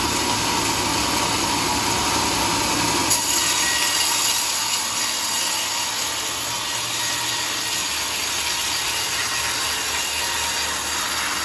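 Homemade sawmill running and cutting through a log, a steady sawing noise, with a sharp click about three seconds in after which the sound changes.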